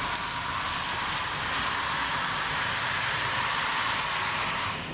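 HO-scale model train running along the track: a steady rolling noise of wheels on rails that dips briefly near the end, where dirty track is blamed for the train faltering.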